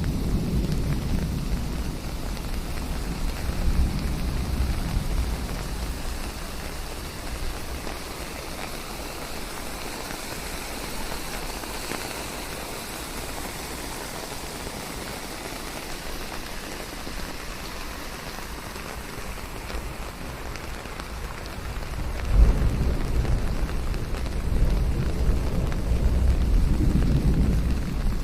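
Steady rain falling, with low rolling rumbles of thunder in the first few seconds and again, louder, through the last several seconds.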